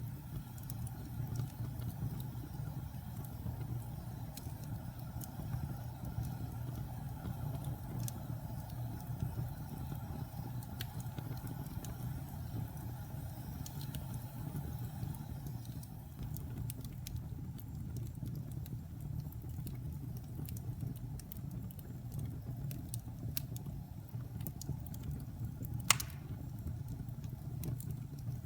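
Wood fire burning in a fireplace: a steady low rumble of flames with scattered small crackles and one sharp pop near the end.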